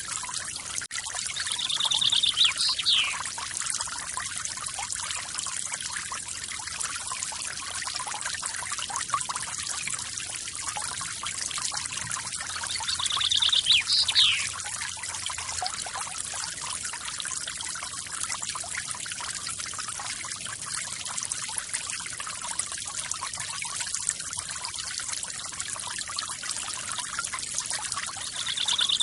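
Waterfall with a steady, even rush of falling water. Twice, a bird gives a short trill that ends in a quick falling whistle, once about two seconds in and again near the middle.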